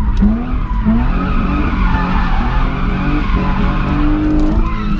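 Drift car's engine revving up several times in quick succession, then held at high revs while the rear tyres skid and squeal through a slide.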